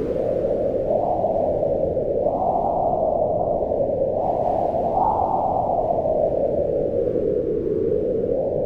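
Wind blowing in a low, steady rush that swells in gusts about a second, two seconds and five seconds in, then eases off.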